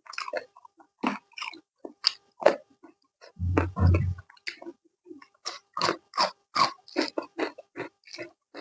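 Close-miked chewing and lip-smacking while eating spicy chicken: a steady run of short wet smacks and crunches, about two a second in the second half. A louder low thump comes a little before the middle.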